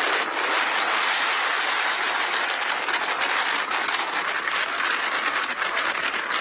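Strong storm wind rushing steadily, a loud even noise without let-up.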